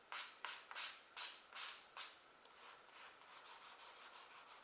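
Charcoal stick scratching short downward strokes on drawing paper: about five strokes half a second apart, then quicker, lighter strokes at about four a second.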